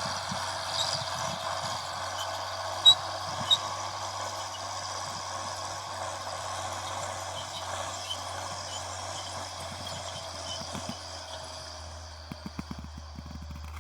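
Fiat 980 DT tractor's diesel engine running steadily, with light irregular rattling and two sharp knocks about three seconds in. The sound slowly fades.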